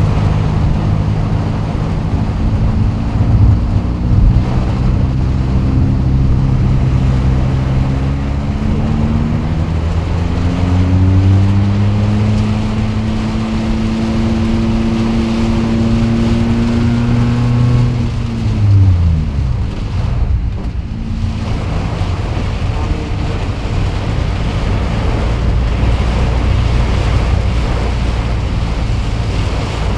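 Steady rush of a heavy rainstorm, with a motor vehicle's engine whose pitch climbs slowly and then drops away sharply about nineteen seconds in.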